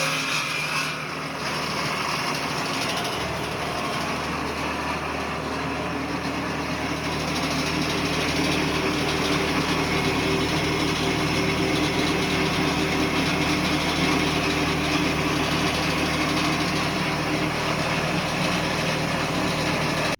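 Electric sawmill edger running steadily, a constant machine hum with a low drone.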